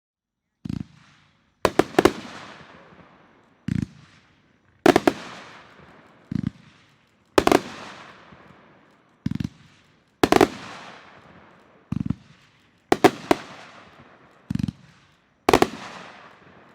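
A GTX 3300 500-gram firework cake firing six shots in turn. Each shot is a low thump as the shell launches from its tube, then about a second later a sharp bang as the shell breaks overhead, fading out over a second or two. The first and fifth breaks come as two or three bangs close together.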